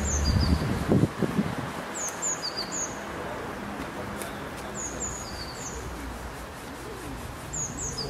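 Small birds chirping: short, high notes that slide downward, in groups of two or three every few seconds, over a steady background of outdoor noise. A low rumble fades out in the first second.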